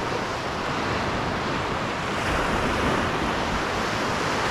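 Steady rushing of Lake Superior waves on the shore, mixed with wind.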